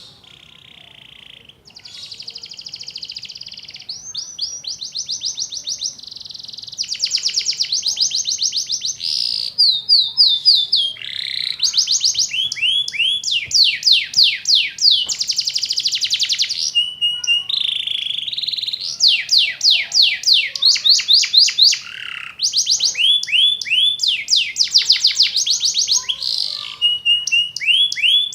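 Domestic canary singing a long, continuous song of fast repeated trills, switching to a new trill every second or two, growing louder over the first several seconds.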